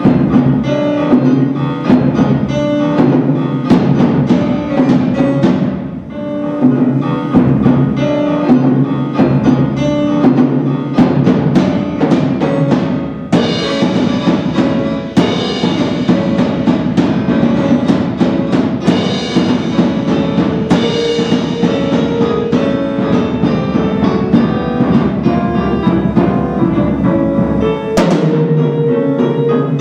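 Live instrumental performance with many quick struck notes and chords, most likely a piano played solo.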